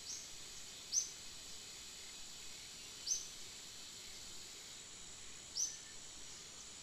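A steady, high-pitched insect drone with a bird giving short, sharp chirps that slide downward in pitch: a faint one at the start, then three loud ones about two seconds apart.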